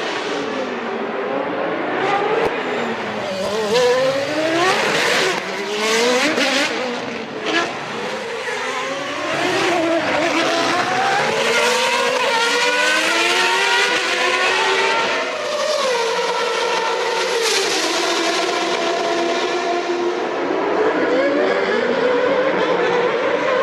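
Early-1990s Formula One racing engines, several cars at once, revving high. Their pitch rises and falls repeatedly as they shift gear, brake and accelerate, with cars passing close by.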